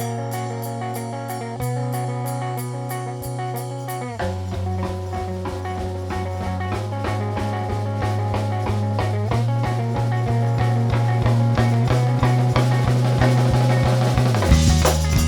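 Band playing an instrumental passage with no vocals: guitar and bass over a drum kit, growing steadily louder. A regular drum beat comes in about four seconds in, and cymbals swell near the end.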